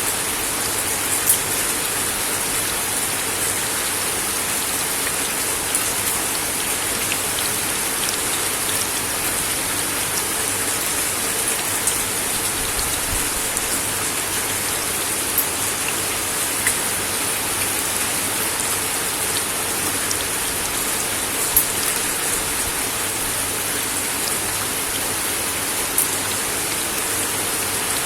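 Steady rain falling on a wooden deck, an even hiss with occasional louder individual drops striking close by.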